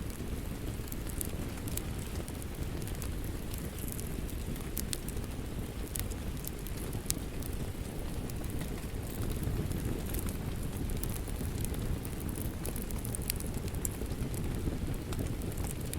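Steady rain with a wood fire crackling, sharp pops scattered all through.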